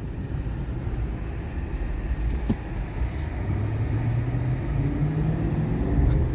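Vehicle engine and road rumble heard from inside the cab while driving, a steady low drone. A brief hiss comes about three seconds in, and a steadier engine hum comes up in the second half.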